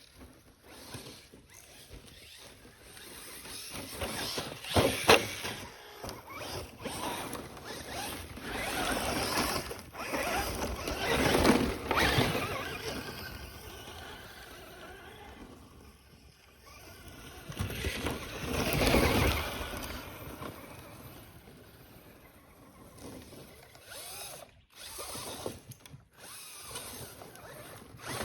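Traxxas Slash 4x4 RC truck's electric motor and drivetrain whining in repeated bursts of throttle, rising and falling, with a sharp knock about five seconds in.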